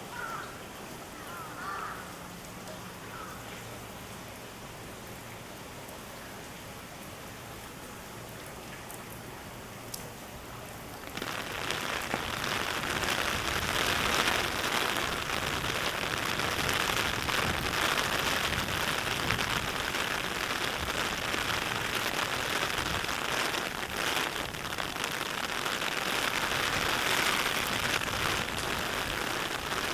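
Rain falling steadily, then suddenly much heavier and louder about a third of the way in.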